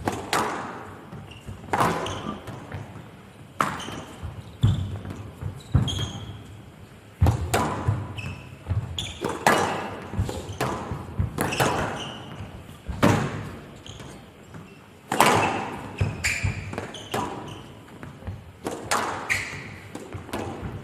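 A squash rally: the ball is struck hard by rackets and cracks off the court walls about every one to two seconds. Each hit echoes in a large hall.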